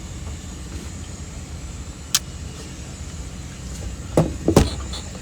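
Steady low rumble of a boat's engine, with one sharp click about two seconds in and two knocks near the end.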